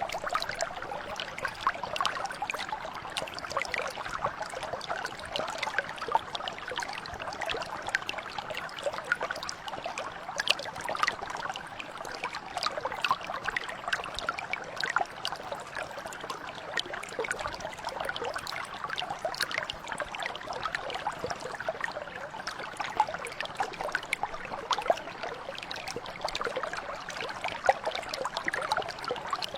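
Small mountain brook flowing steadily over stones, a continuous babble of many small splashes and trickles.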